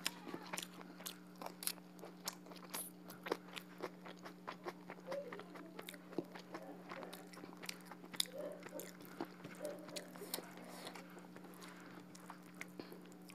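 Close-miked chewing and wet lip smacking of someone eating rice and duck curry by hand, with many quick, sharp mouth clicks.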